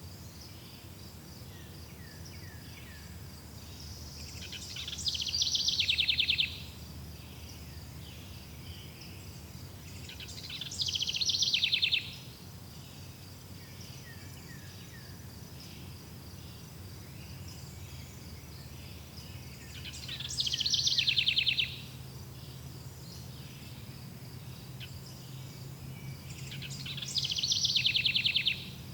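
Forest ambience: a steady high chirping of crickets throughout, with a loud, rapid bird trill of about two seconds that swells in volume and then stops abruptly, repeated four times.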